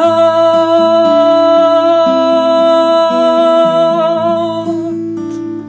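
Song music: a singer holds one long high note for nearly five seconds, wavering slightly as it fades near the end, over a repeating picked guitar arpeggio and low bass notes.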